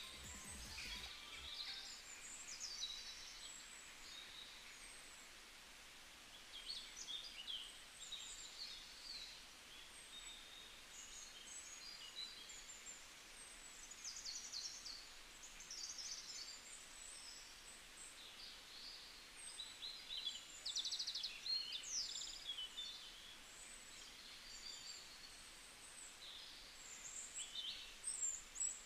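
Birds chirping and singing: short high chirps and quick trills that come and go, over a faint steady hiss.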